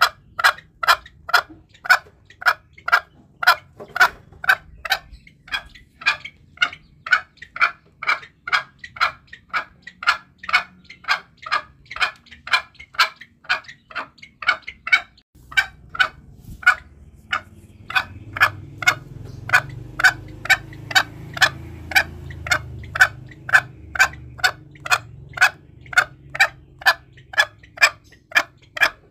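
Green junglefowl clucking, short sharp notes repeated evenly about two a second, played as a hunting lure call. About halfway through a low rumble rises under the calls.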